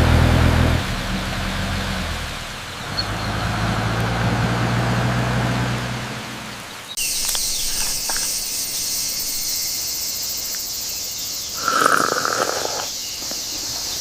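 A bus engine hums low and steady, then about seven seconds in the sound cuts abruptly to a steady high hiss. A short mid-pitched sound comes about twelve seconds in.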